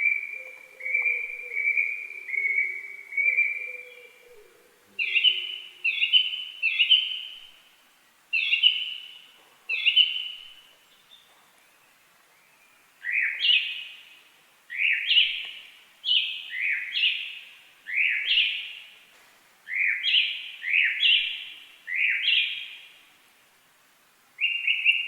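A bird calling over and over in short, loud notes of about half a second, in runs of two to five with pauses between. The later runs are slightly longer notes that sweep up at the start. A faint lower sound runs underneath in the first few seconds.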